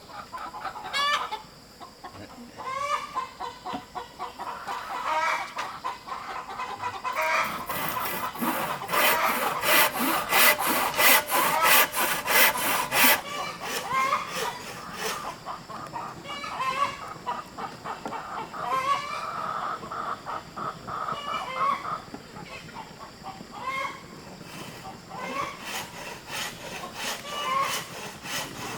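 Chickens clucking, with a rooster crowing, throughout. For about six seconds near the middle there is a louder run of rhythmic strokes, about three a second, typical of hand work on wood.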